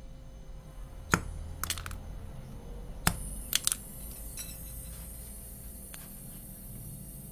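A few sharp metallic clinks and knocks of small hard objects being handled: one about a second in, a quick cluster just after, a louder one around three seconds in and a quick pair after it. A steady high hiss starts with the louder knock.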